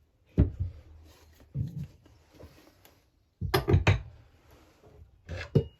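Knocks and clatters of tools being handled on a workbench: a few separate clunks, then a louder run of clattering hits about three and a half seconds in, and two more sharp knocks near the end.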